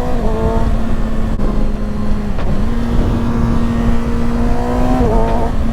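2021 Kawasaki Ninja ZX-6R's inline-four engine running at steady mid revs on the move, with a low rumble of wind underneath. The engine note dips briefly about two and a half seconds in, then climbs slightly near the end.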